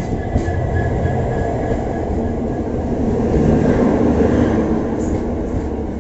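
Passenger train running along the track: a steady rumble of wheels and coaches that swells slightly around the middle, with a faint high whine through the first couple of seconds.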